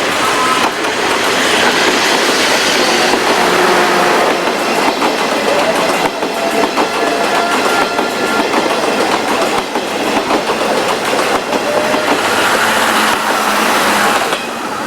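A 475-series electric train running along the line, its wheels clattering over the rail joints, with a few faint high squealing tones above the steady running noise.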